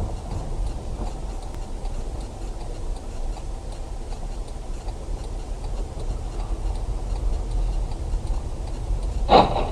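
A vehicle's steady low engine and road noise, with a faint, even ticking running through it. A short, loud knock sounds about nine seconds in.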